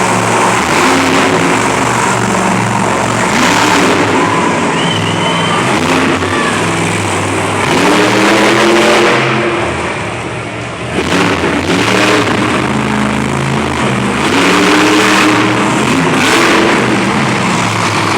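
Monster truck engines revving hard in repeated rising and falling surges, with a brief lull about ten seconds in.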